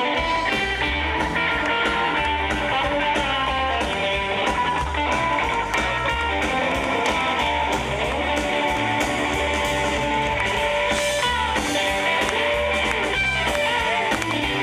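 Country band playing an instrumental break: a guitar lead with bending notes over bass and drums keeping a steady beat.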